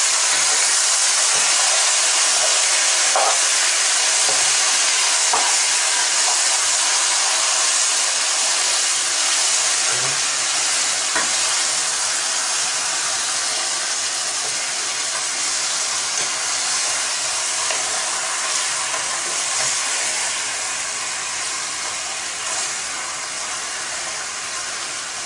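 Marinated chicken and vegetables sizzling in hot olive oil in a pot, an even frying hiss that slowly grows quieter, with a few light knocks of a spatula stirring against the pot.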